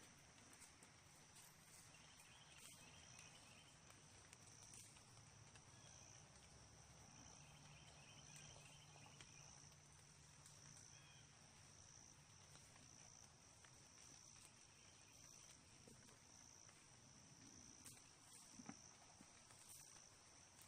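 Near silence: faint woodland background with a steady high-pitched insect drone, likely crickets, and a couple of brief faint trills.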